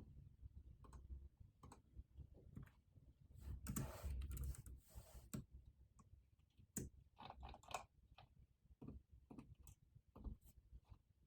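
Computer keyboard being typed on slowly: scattered, irregular key clicks and taps. About three and a half seconds in, a louder rustling noise lasts about two seconds.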